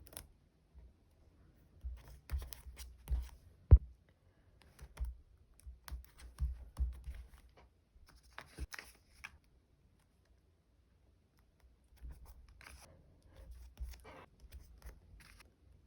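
Close-up paper-crafting handling sounds: stickers and plastic sleeves being handled, peeled and rustled in scattered clusters, with one sharp click a little under four seconds in and a few seconds of quiet in the middle.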